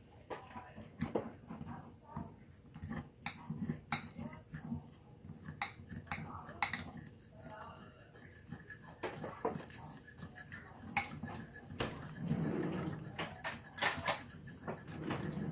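A spoon stirring a cornstarch sauce in a cup, clinking irregularly and repeatedly against the cup's sides.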